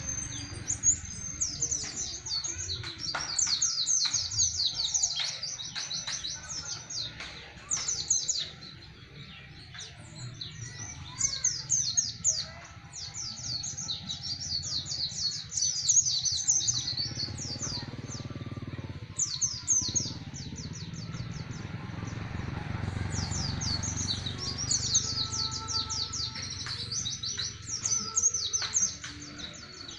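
Pleci (white-eye) singing its long, fast rolling song of high chirps, in runs of several seconds with short pauses between. Underneath is a low rumble of strong wind on the microphone.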